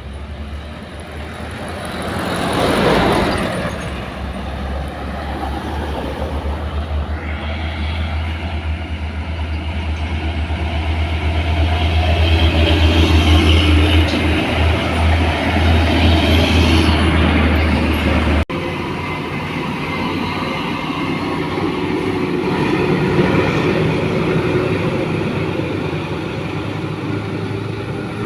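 Heavy trucks' diesel engines labouring up a steep climb: a deep engine drone that builds to its loudest in the middle, with a vehicle rushing past close about three seconds in. About two-thirds of the way through the drone cuts off abruptly, and lighter traffic noise carries on.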